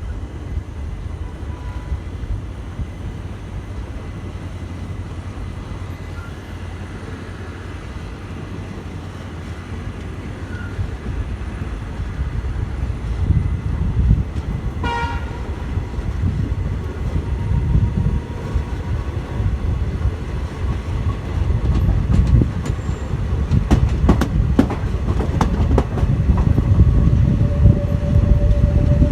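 Passenger express train running on the track, a steady low rumble that grows louder in the second half, with a short horn-like toot about halfway and a run of clicks from the rails a few seconds before the end.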